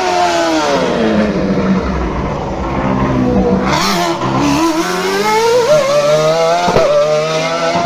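Race car engine braking down with falling pitch, then accelerating hard with its pitch climbing, broken by a sharp gear change about seven seconds in.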